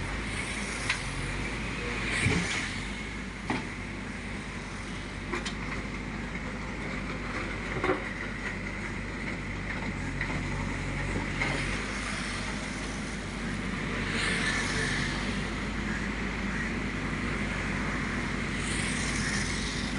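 JCB 3DX backhoe loader's diesel engine running steadily, with several sharp knocks in the first half and a few louder swells of noise later on.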